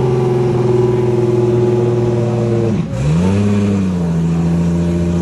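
Turbocharged Lexus IS300 drag car engine held at high revs. About three seconds in the revs drop sharply, climb straight back, and then hold steady at a slightly lower pitch.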